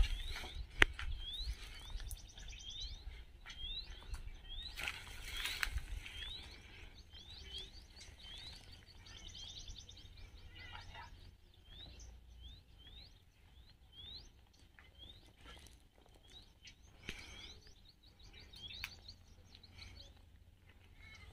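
A small bird calling again and again: a short, rising chirp about once or twice a second, with a few quick twittering trills. Footsteps and rustling through dry brush and stones break in now and then, loudest near the start and about five seconds in.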